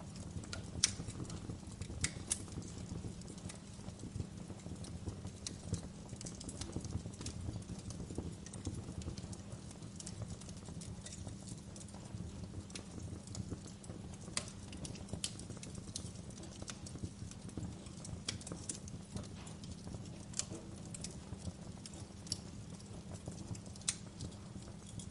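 Wood fire crackling: scattered sharp pops and snaps, several a second, over a steady low rumble of the burning fire.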